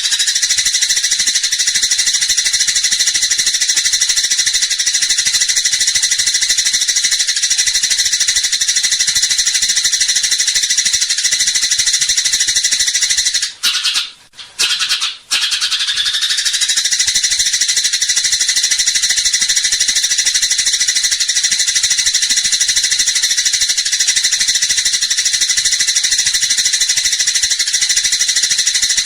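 Eurasian tree sparrows chattering in a rapid, continuous, high-pitched fighting call, with a brief break about halfway through.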